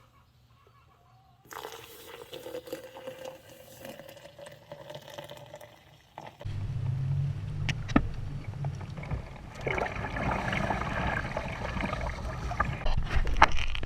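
Water sounds: faint sloshing, then from about six seconds in a louder low rumble with splashing and a few sharp clicks.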